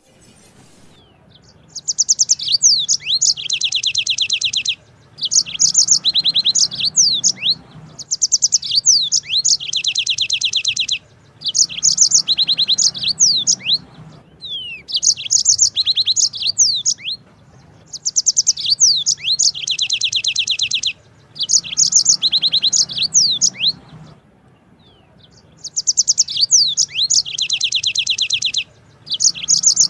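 Yellow-fronted canary (Mozambique singer) singing in repeated bouts of fast, high trills mixed with quick whistled slurs. Each bout lasts two to three seconds, with short pauses between.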